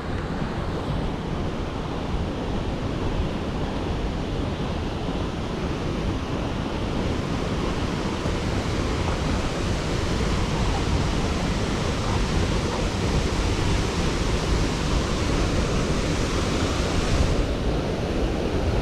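Waterfall pouring steadily, a continuous rushing hiss of falling water; the high part of the hiss thins a little near the end.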